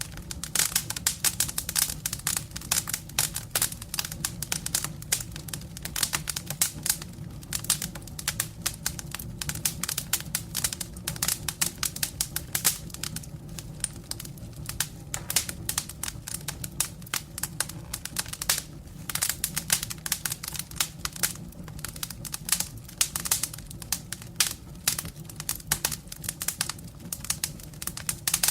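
Wood fire burning in a fireplace, crackling with dense, irregular pops and snaps over a steady low hum.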